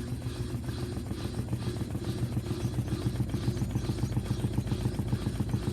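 LG inverter direct-drive washing machine running between draining and spinning: a steady motor hum with a rapid, even pulsing, and the drained water gurgling.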